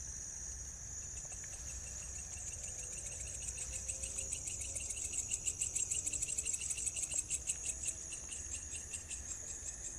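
Night insects chirping, crickets among them: a steady high trill, joined from about a second in by a louder, rapidly pulsing high call that is loudest midway and eases off near the end.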